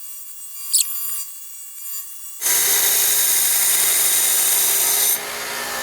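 A 1-inch belt grinder grinding and polishing a steel axe head. After about two and a half seconds of faint sound, a loud, steady grinding hiss starts as the steel meets the belt. It eases off a step near the end.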